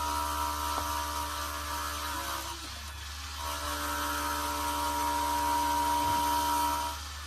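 Custom automatic tespih (prayer-bead) turning machine running as it shapes a bead by itself: its motor gives a steady whine over a low hum. The whine sags and falls in pitch about two and a half seconds in, picks up again a second later, and drops away again near the end.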